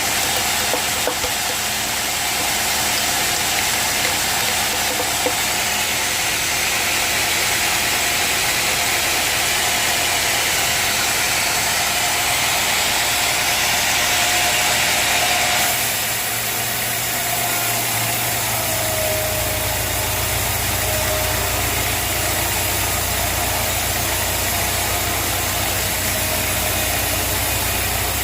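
A sawmill's engine running steadily. About halfway through the sound changes: the high hiss drops away and a deeper, steady hum comes in.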